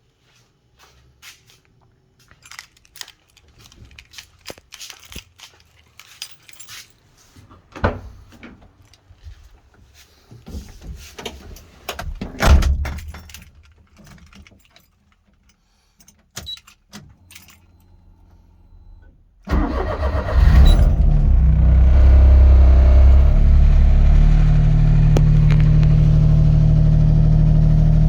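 Scattered clicks and knocks, then the Daihatsu Mira Van's EF-DET three-cylinder turbo engine, fitted with a Fujitsubo Power Getter muffler, starts about two-thirds of the way through after a long time unused. It catches at once and settles into a steady idle.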